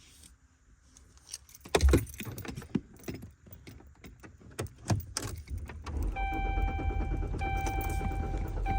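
Car keys jangling with scattered clicks and knocks, then about six seconds in a car starter begins cranking the engine, a steady low rumble with a high tone that breaks off briefly about every second and a quarter, the engine not catching.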